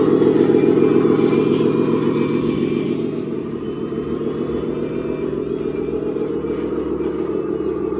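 Radio-controlled scale construction machine running steadily, its motor and gears making a dense mechanical drone with faint whines; slightly quieter after about three seconds.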